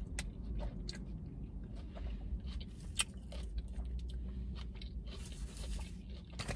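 Close-up chewing of a mouthful of burrito bowl (rice, beans, chicken, lettuce), with many small wet mouth clicks over a steady low hum. There is a brief rustle near the end.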